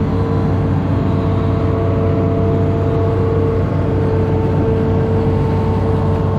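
Amphibious excavator's diesel engine running steadily under work, with a steady whine over the rumble.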